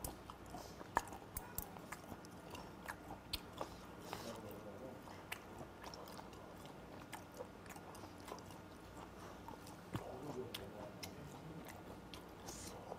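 Close-miked chewing of a mouthful of fermented skate (hongeo): a run of small wet clicks and smacks from the mouth, irregularly spaced.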